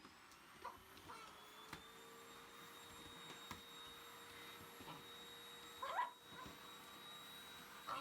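Shiba Inu giving a short bark about six seconds in and another at the end, over the faint steady hum of a vacuum cleaner motor.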